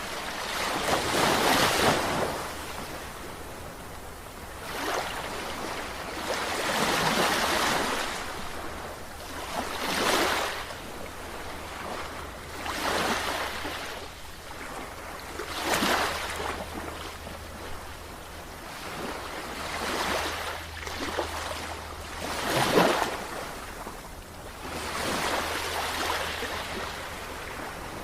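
Sea waves washing in and drawing back, swelling and falling every two to three seconds, with a faint steady low hum underneath.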